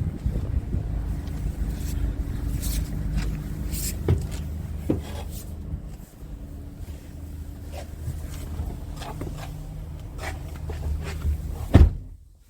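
Scania R460's 13-litre inline-six diesel engine idling steadily, with scattered clicks and knocks and one loud thump near the end, after which the sound drops away suddenly.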